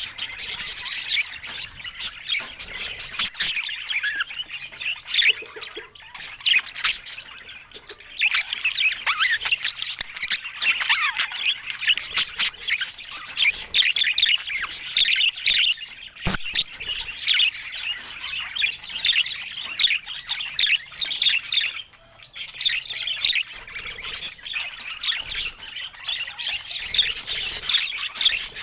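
Budgerigars chattering: a dense, nearly continuous stream of rapid high chirps and warbles, with a brief lull about 22 seconds in.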